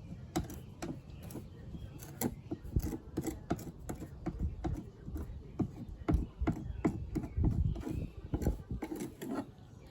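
Irregular rubbing and scraping with sharp clicks, from caulk being worked by hand into rust holes in a minivan's body panel.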